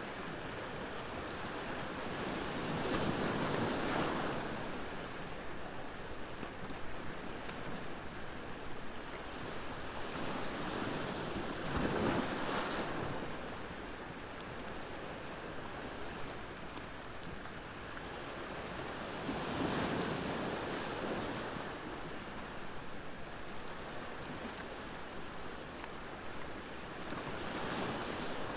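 Ocean waves breaking and washing in, the surf swelling and falling back about every eight seconds, four times. Faint, scattered crackles of a wood bonfire sit under the surf.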